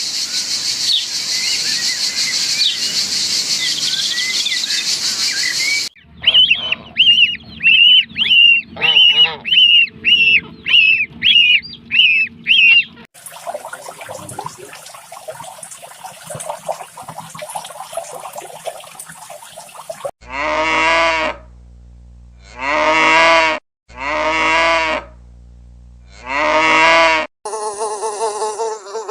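A run of short animal-sound clips. First comes a dense high buzz, then about a dozen quick repeated chirps, and near the end four long drawn-out farm-animal calls, each about a second long and a second or so apart.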